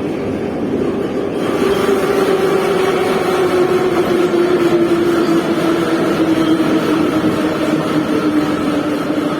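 Moscow metro train heard from inside the carriage: wheel and rail noise under a motor whine that falls steadily in pitch as the train slows. The noise grows louder and brighter about a second and a half in.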